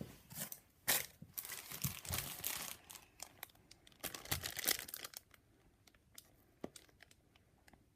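Packaging of a Match Attax trading card multipack being torn open and crinkled, in bursts over the first five seconds, then a few small rustles and clicks.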